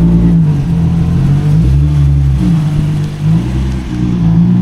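Car engine running under changing throttle, its pitch climbing and dropping several times as the revs rise and fall.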